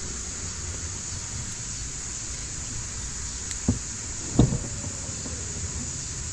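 Steady outdoor hiss with two dull thumps a little past halfway, about a second apart, the second louder.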